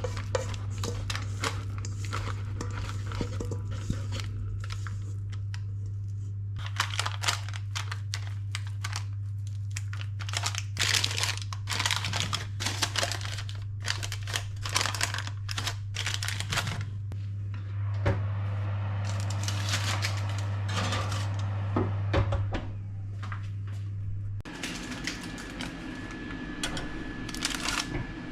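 Crinkling and rustling of packaging or paper being handled, in many short crackly bursts, over a steady low hum. The hum stops about three-quarters of the way through, leaving a different steady sound with a thin high tone.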